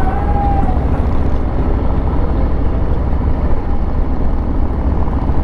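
2020 Harley-Davidson Street Bob's V-twin engine running while the bike is ridden, a steady low rumble.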